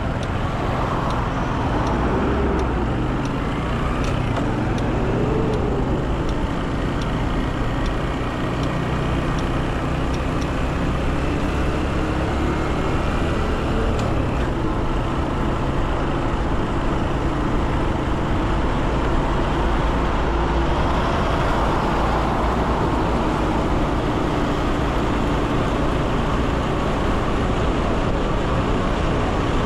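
Motorcycle engine running while riding on a city road, its pitch rising and falling a few times as it revs, over steady road and wind noise.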